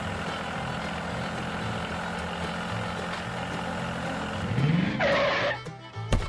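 Small motor running steadily. It rises in pitch about four and a half seconds in, followed by a short hissing burst and a sharp knock near the end.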